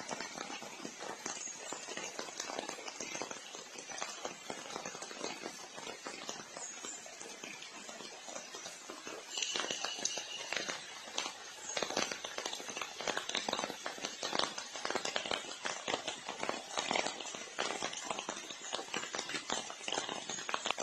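Heavy rain falling and pattering: a dense hiss made of many small drop strikes, getting louder about halfway through.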